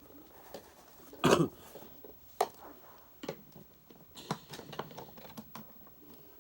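Scattered clicks and knocks of an upright vacuum cleaner's parts being handled, the loudest knock about a second in.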